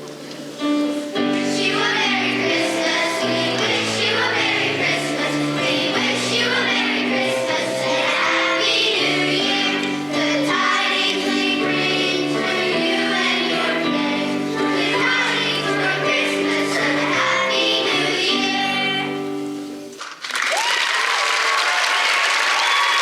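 Choir singing a song in held chords that step from note to note; the song ends about twenty seconds in and the audience breaks into applause.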